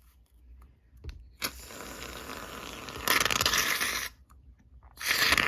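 Aerosol can of shaving foam spraying: a softer hiss starting about a second and a half in, then two loud hisses of about a second each, the second near the end.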